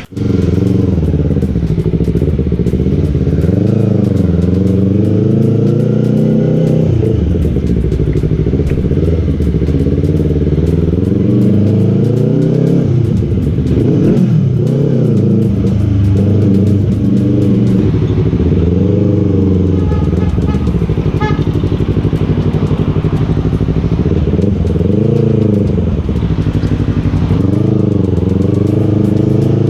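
Yamaha R3 parallel-twin motorcycle engine running through its exhaust and silencer, revved up and down repeatedly with the pitch rising and falling every few seconds.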